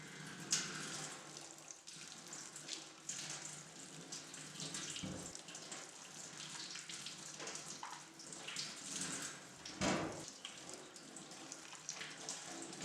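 Water running from a tap into a sink, with scattered clinks and two dull knocks, the louder about ten seconds in.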